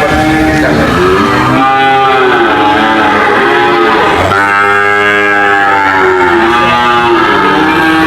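Cattle mooing, long calls overlapping one another without a break, with a long low call starting about four seconds in.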